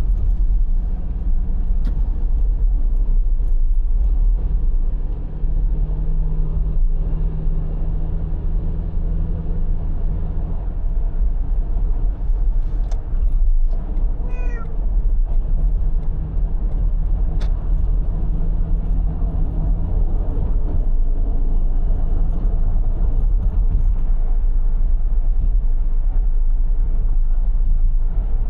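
Steady low rumble of a car on the move, with a cat meowing once about halfway through.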